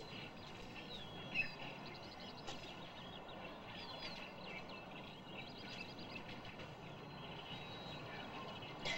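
Faint birdsong: scattered short chirps and whistles from small birds over a steady background hiss, with one louder chirp about a second and a half in.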